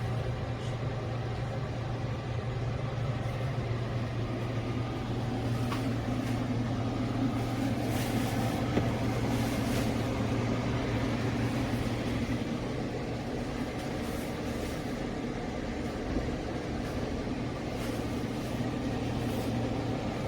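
KGOGO 7000 BTU portable air conditioner running its fan steadily: an even whooshing noise over a low hum, really noisy, with no drop in fan strength in sleep mode.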